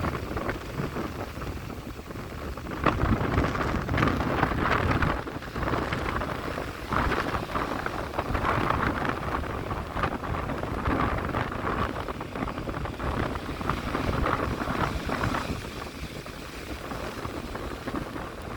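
Strong wind buffeting the microphone over waves crashing and splashing on the shore, rising and falling in irregular surges.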